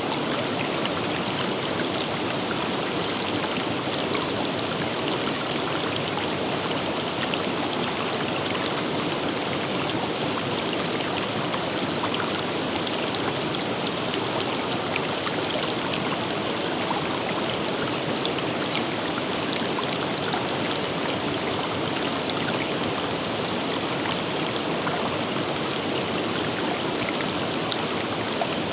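River water rushing and splashing over rocks in a steady, even flow, with fine droplet patter throughout.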